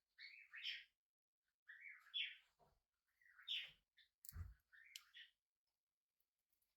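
Budgerigar chirping in four short bursts of quick chirps, with a soft knock about four and a half seconds in.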